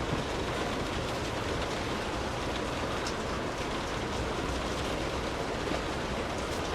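Steady rain falling, an even hiss with a few sharper drops now and then.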